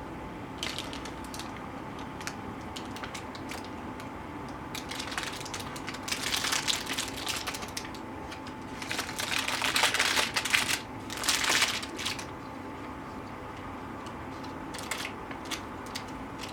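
Kitchen food-preparation handling noises: scattered light clicks and a few longer crunchy, scraping bursts, over a faint steady hum.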